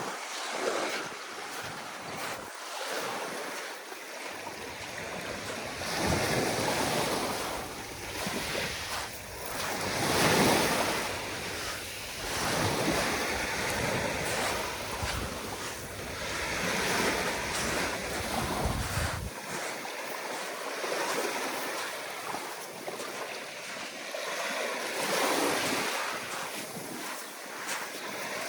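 Sea waves washing onto a sandy beach, swelling and falling back every few seconds, with wind buffeting the microphone as a low rumble through the middle that drops away about two-thirds of the way through.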